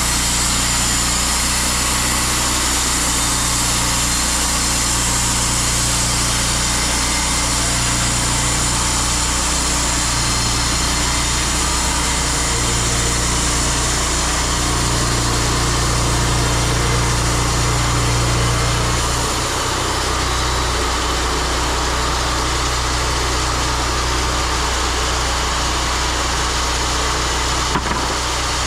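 An engine running steadily, its tone changing a little about two-thirds of the way through, with one sharp click near the end.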